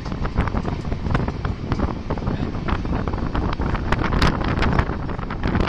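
Wind buffeting the microphone at the open door of a passenger train running at speed. Under the wind, the coaches' wheels and running gear clatter on the track in a quick, irregular run of clicks and knocks.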